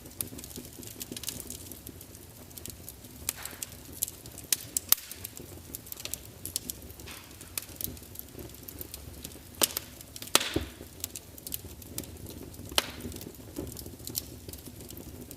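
Wood fire in a large open fireplace, crackling and spitting: irregular sharp pops and snaps over a low steady rumble of flames, with a cluster of louder pops about ten seconds in.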